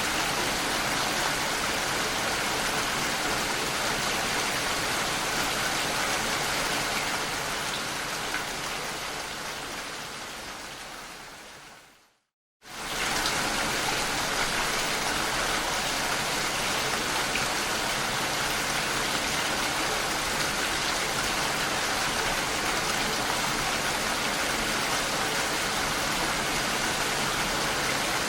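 Steady rain. About halfway through it fades away over several seconds to a half-second of silence, then returns suddenly at full strength.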